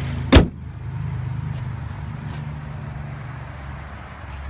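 A single sharp click about half a second in, over a steady low hum.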